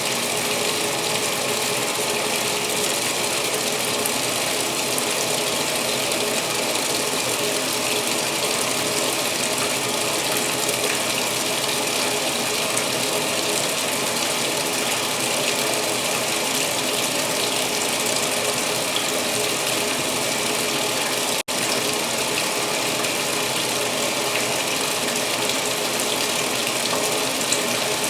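2016 Speed Queen top-load washer filling for the main wash: a steady rush of water pouring into the tub through the fill valve. The sound drops out for a split second about 21 seconds in.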